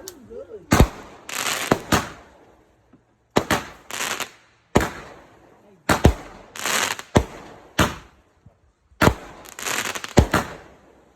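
Fireworks going off: a run of about ten sharp bangs with short pauses between them. Several bangs are followed by a second or so of crackling hiss.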